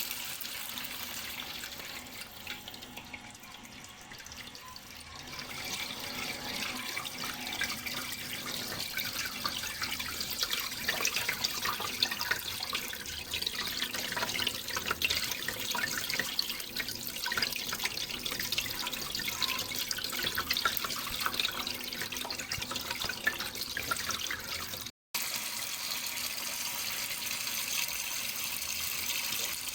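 Running water trickling and splashing steadily, a little softer a few seconds in, with a split-second gap of silence late on.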